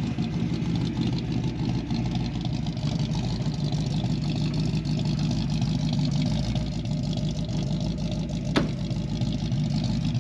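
347-cubic-inch stroker small-block Ford V8 running steadily, warmed up and running well, through shorty headers. A single sharp click about eight and a half seconds in.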